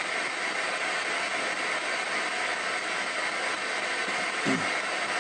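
Ghost box (spirit box) radio sweeping stations in reverse, giving a steady hiss of static, with one short falling snatch of sound near the end.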